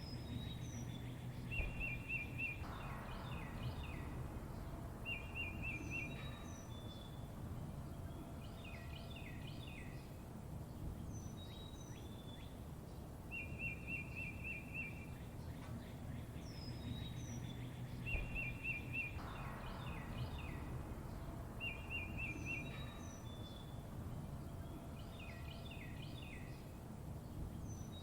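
Songbirds chirping and trilling: a short rapid trill that comes every few seconds, high down-slurred chirps and clusters of quick notes, over a steady low rumble. The same sequence repeats about every sixteen seconds, like a looped recording.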